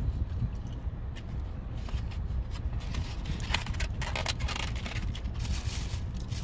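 Eating noises close to the microphone over a steady low rumble, with a run of crackling and rustling, like a takeout container being handled, from about three and a half to five seconds in.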